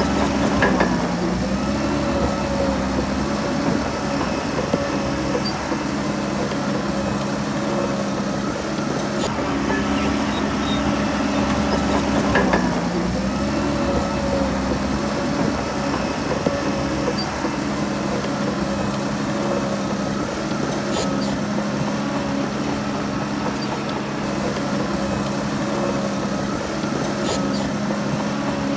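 Heavy diesel engine of a Shantui DH17C3 bulldozer running steadily, its pitch sagging briefly about a second in and again about twelve seconds in. A few sharp clanks come through near the middle and end.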